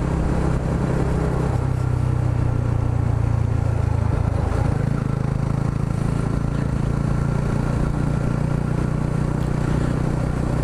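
Yamaha R125's 125cc single-cylinder four-stroke engine running under way. The engine note shifts about a second and a half in and again near five seconds, then holds steady.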